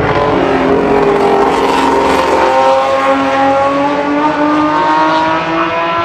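Historic racing car engine at full throttle, its pitch climbing steadily as the car accelerates.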